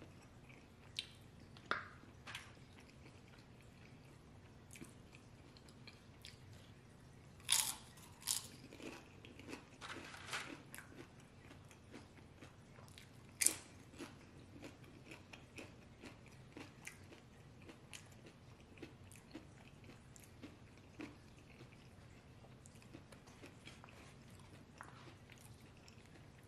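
Close-up eating sounds: a mouthful of burrito bowl being chewed, with soft mouth clicks and a few sharper crunching bites around the middle.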